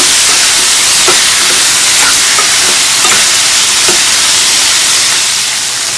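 Onions, tomatoes and cashews sizzling in hot oil in a kadhai, a steady loud hiss, while a steel spoon stirs and scrapes the pan about once a second. The tomatoes are frying down until soft.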